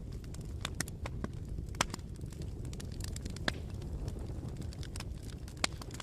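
Bonfire crackling: scattered sharp snaps of burning wood over a steady low rumble of the flames, with three louder pops spread through it.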